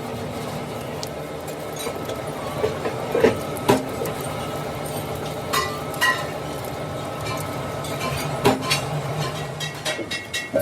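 Steel workpieces clanking and knocking at irregular moments, a few of the hits ringing briefly, over a steady machine hum.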